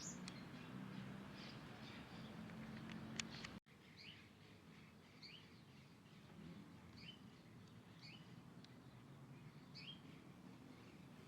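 Faint bird chirps: short, quick upward-sliding notes repeated roughly once a second, starting after an abrupt cut a few seconds in. Before the cut there is a low steady hum with a few sharp clicks.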